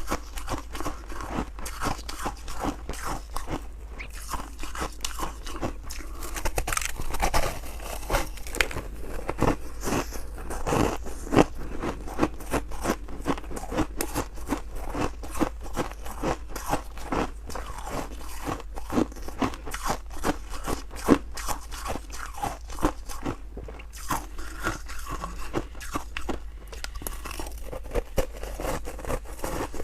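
Freezer frost being bitten and chewed up close, a dense run of crunching and crackling.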